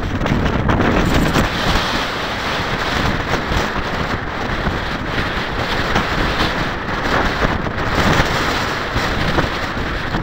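Strong, gusty wind buffeting the microphone: a loud, steady rush that swells and dips with the gusts.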